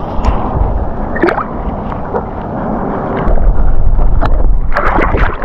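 Water sloshing and gurgling close beside the kayak, with wind rumbling on the microphone, getting louder about three seconds in.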